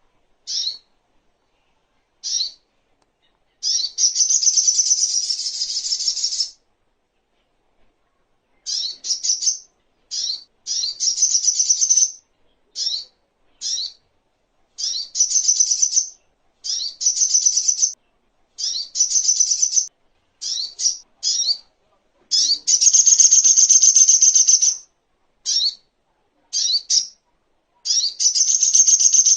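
Little spiderhunter (sogok ontong) singing: short, sharp, high chirps alternating with longer rapid trills of repeated notes, each lasting one to three seconds, with brief pauses between phrases.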